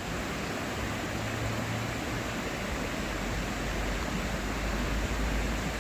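Steady rushing of a small waterfall: an even hiss with a low rumble underneath.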